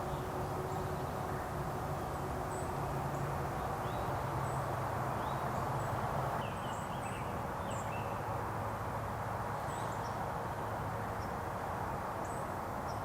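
Outdoor morning ambience: small songbirds giving short, scattered chirps over a steady background hiss.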